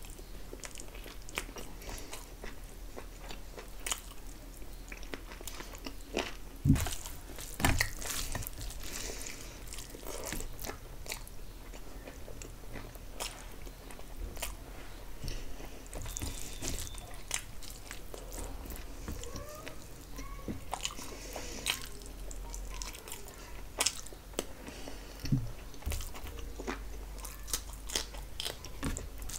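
A person chewing mouthfuls of mutton kacchi biryani eaten by hand, close to the microphone, with many short mouth clicks. Two louder knocks come about seven and eight seconds in.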